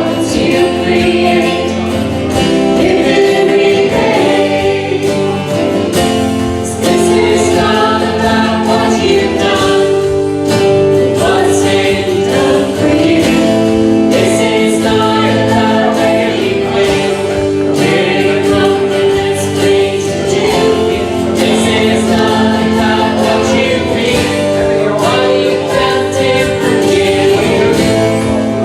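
Congregation or choir singing a hymn with instrumental accompaniment.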